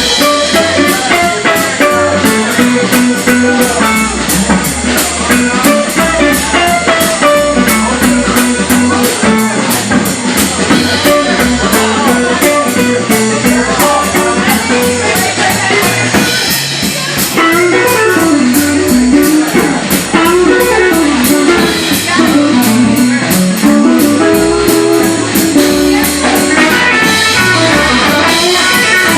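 Live blues-rock band playing: electric guitar over a drum kit keeping a steady beat.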